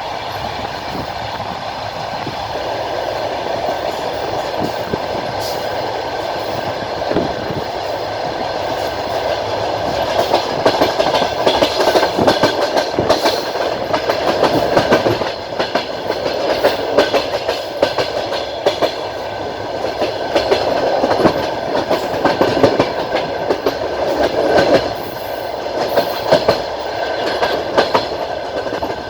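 Passenger train running along the track, its wheels clacking over the rail joints. The rattle and rumble of the carriage swell from about ten seconds in.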